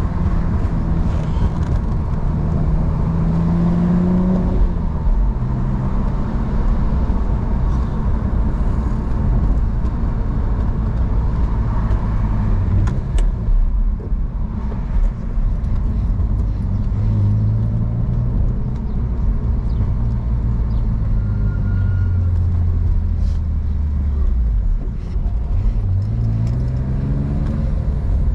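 BMW E46 engine and exhaust under way: the revs climb about three seconds in and drop sharply, hold fairly steady for most of the stretch, and climb again near the end.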